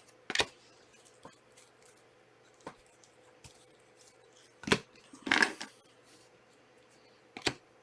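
Trading cards being handled and set down on a table: scattered light clicks and taps, with a louder tap and a short rustle about five seconds in.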